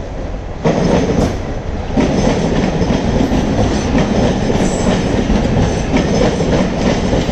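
Suburban electric local train passing close by, wheels clattering over the rail joints in repeated clicks. The rumble jumps sharply louder just before a second in and again at about two seconds as the local reaches the spot, over the running noise of a departing express's coaches on the next track.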